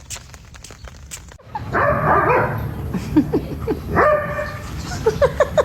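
A dog yipping and whining: short high yips, a longer held whine about four seconds in, and a quick run of yips near the end.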